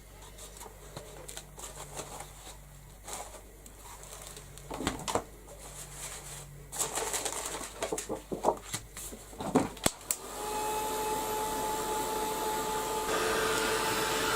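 Light handling of paper and craft tools with a few sharp taps and clicks, then about ten seconds in a craft heat tool switches on and runs with a steady blowing sound and a steady whine, drying the ink.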